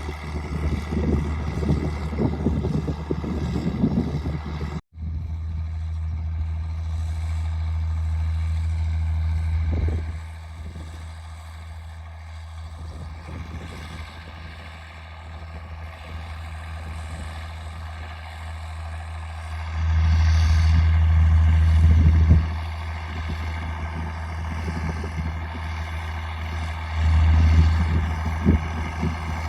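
Straight-piped John Deere 4630's six-cylinder turbo diesel running steadily under load while pulling a hiller through a soybean field. The sound cuts out for an instant about five seconds in and grows louder for a couple of seconds about two-thirds of the way through and again near the end.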